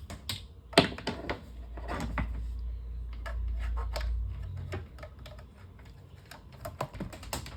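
Electric fan running with its blade loose on the motor shaft, clattering with rapid irregular knocks and clicks over a low motor hum. The blade is vibrating on the shaft because the cover that holds it in place is missing.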